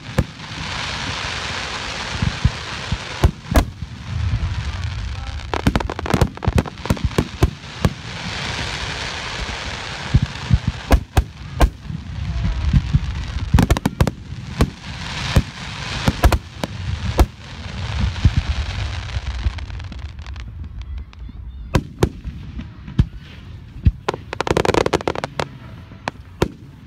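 Aerial firework shells bursting in quick succession, many sharp bangs one after another, with stretches of steady hiss between them. The bangs grow sparser after about twenty seconds.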